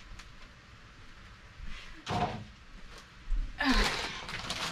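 Groceries and plastic packaging being handled and set down: a short knock and rustle about two seconds in, then a longer rustle near the end.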